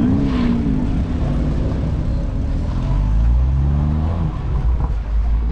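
A Morgan sports car's petrol engine pulling away, its note rising as it accelerates about three seconds in, then settling into a low steady run.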